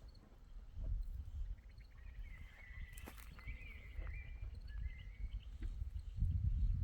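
Outdoor ambience with a steady low rumble and a faint, high, thin call that steps up and down in pitch through the middle, with one sharp click partway through. A heavier low thudding starts near the end.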